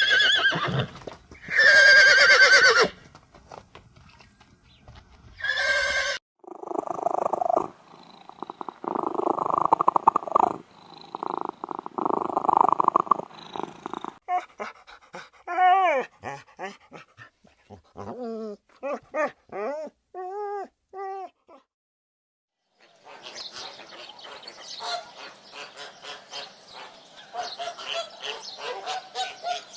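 A string of separate animal calls, one clip after another: a few loud calls at the start, a long rough growling stretch, a run of short rising-and-falling calls, a brief gap, then a noisier stretch of calls near the end.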